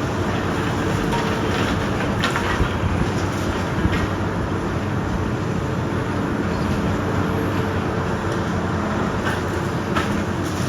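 Heavy demolition machine's diesel engine running steadily, with a few sharp knocks about two and four seconds in and again near the end.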